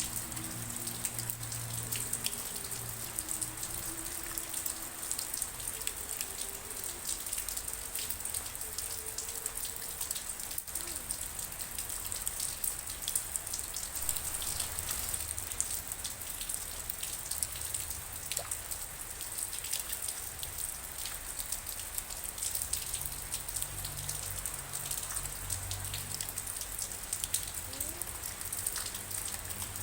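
Steady rain, with a constant hiss and many individual drops pattering and dripping on a surface. In the first several seconds a faint, low, stepping flute melody sounds under the rain.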